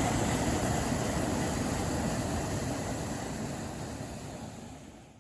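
Steady rushing of a tall waterfall, fading out near the end.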